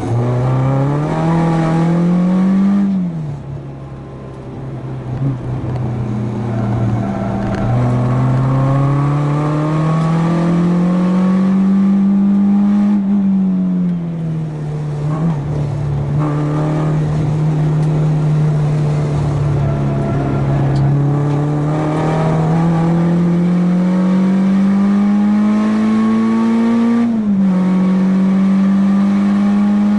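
Renault Clio 2 RS four-cylinder engine driven hard on track. Its pitch climbs steadily through the revs and drops sharply three times, at about 3, 13 and 27 seconds in. After the first drop it goes quieter for a few seconds before pulling again.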